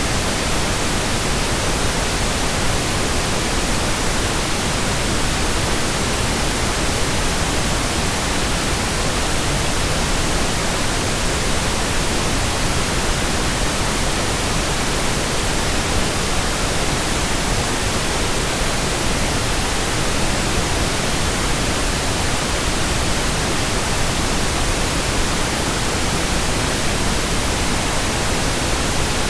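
Steady white noise: an even, unchanging hiss spread across the whole range from low to high, with no breaks or changes.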